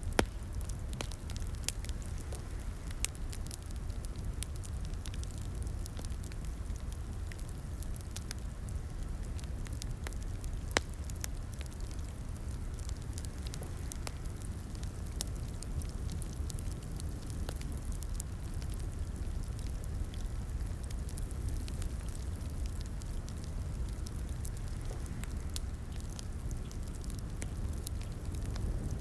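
Wood fire crackling in a fireplace: a steady low rumble of flames with frequent small snaps and pops, and a few sharper pops, the loudest about eleven seconds in.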